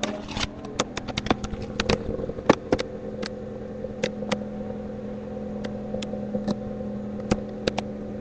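1995 Toyota Corolla's 1.8-litre four-cylinder engine with a straight-pipe exhaust idling steadily while it warms up. Sharp irregular clicks sound over the idle, most of them in the first two seconds.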